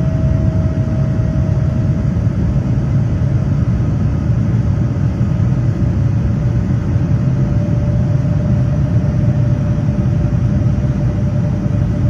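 Cabin noise inside a Boeing 787-10 in flight: a steady, loud low rumble of jet engines and airflow, with a faint steady whine that sinks very slightly in pitch.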